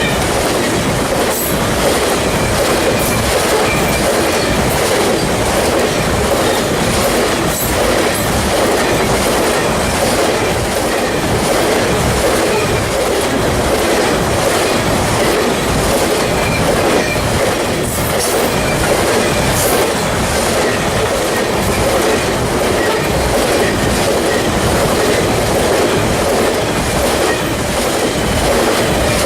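Freight train cars rolling past at close range: a steady, loud rumble of steel wheels on rail with clickety-clack from the rail joints and faint, intermittent wheel squeal.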